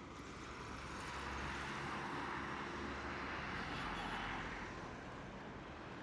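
A vehicle passing by: a rush of noise that builds from about a second in, holds, then fades away after about four and a half seconds, over a low steady hum.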